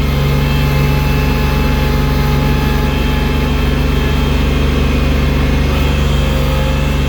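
Engine of a snow-clearing machine fitted with a loader bucket, running steadily at an unchanging speed.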